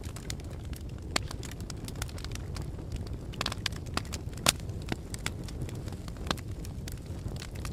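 Wood fire burning with a steady low rumble and irregular crackles and pops, a few louder snaps among them.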